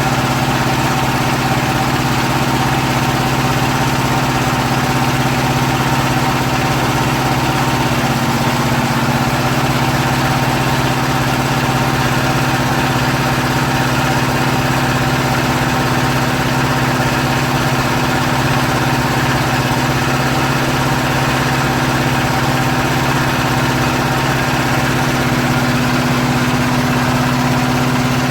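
Steady machine hum from the power unit of a hydraulic paving-block press, its motor and hydraulic pump running continuously. The pitch dips slightly about eight seconds in.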